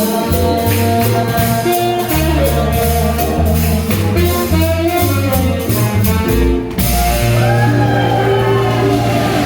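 Live swing jazz band playing, a bass line pulsing under the horns and chords. About two-thirds of the way through the beat breaks off for a moment, then the band holds a long sustained chord with a wavering melody line over it.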